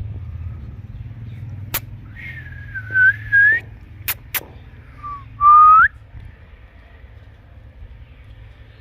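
Indian ringneck parrot whistling: several short, clear whistled notes, the last one rising and the loudest. Three sharp clicks fall among them over a steady low rumble.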